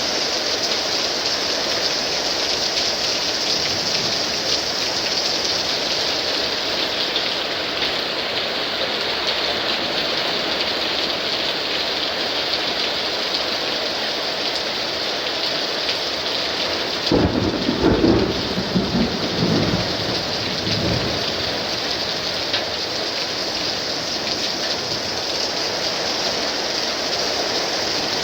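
Heavy thunderstorm downpour: rain pouring steadily, with a thunderclap a little past halfway that rumbles on for a few seconds.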